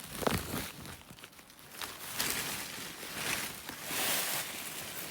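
Irregular rustling and handling noises, with a few sharp clicks near the start.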